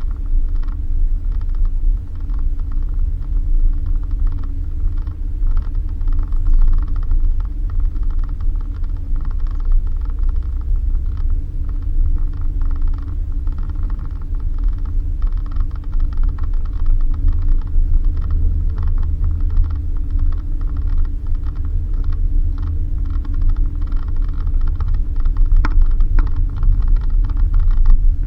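Suzuki Jimny driving on a dirt road: a steady low engine and road rumble, with frequent clicks and rattles from the bumps.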